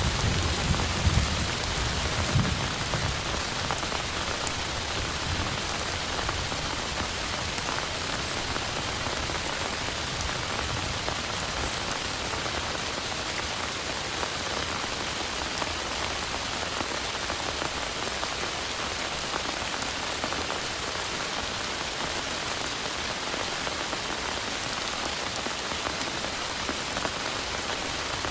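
Heavy, steady rain falling without letup. A low rumble of thunder dies away over the first few seconds.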